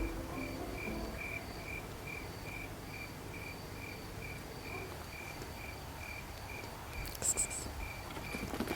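A cricket chirping steadily, short even chirps at one pitch, about two and a half a second, with a brief rustle near the end.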